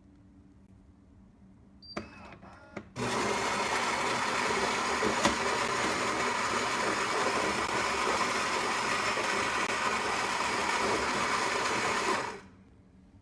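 Philips 3200 LatteGo espresso machine's built-in burr grinder grinding coffee beans: a few clicks and a short whir, then about nine seconds of steady loud grinding that stops abruptly.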